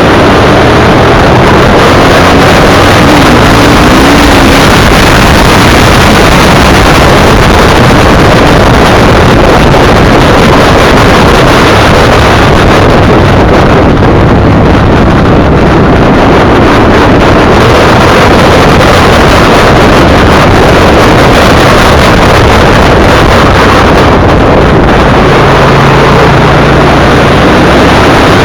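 Motorcycle riding at speed: heavy wind buffeting on the microphone over the steady running of the V-twin engine, loud throughout.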